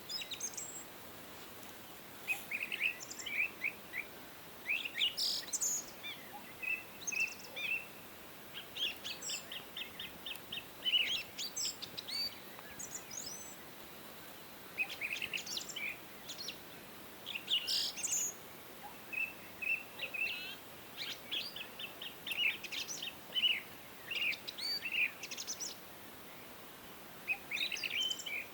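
Several songbirds singing: bursts of quick high chirps and short trills in irregular phrases, over a faint steady hiss.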